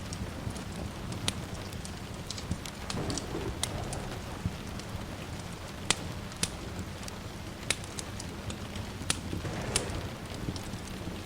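Log fire crackling, with sharp pops scattered every second or so, over a steady bed of rain.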